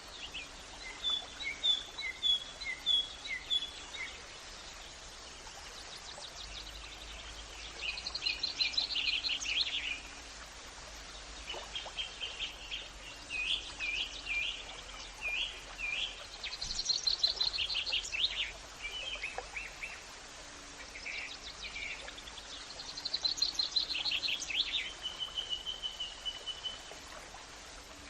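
Birds singing: phrases of quick high chirps and trills come every few seconds over a steady, faint background hiss.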